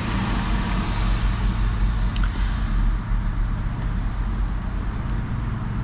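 Steady road-traffic rumble with a constant low hum. The hiss of passing vehicles eases off about halfway through, and there is one faint tick a little after two seconds.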